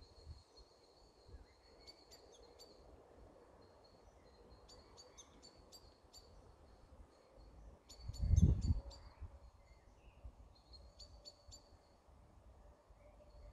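Small birds chirping in short clusters of quick, high notes every few seconds over faint outdoor background noise, with a brief low rumble about eight seconds in.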